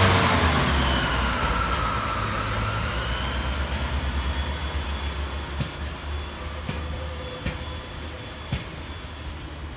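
Class 142 Pacer diesel railcar pulling away, its diesel engine drone fading as it draws off, with a few sharp clicks in the second half.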